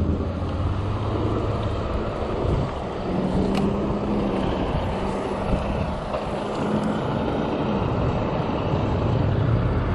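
Strong wind rushing over the microphone of a moving e-bike, with the low, steady engine hum of passing road traffic.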